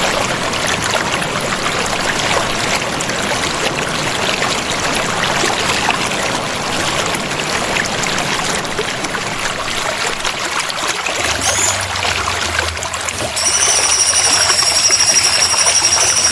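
Running water streaming and trickling steadily, played as water therapy for a caged songbird. About two-thirds of the way through, a steady, slightly wavering high-pitched whistle joins the water.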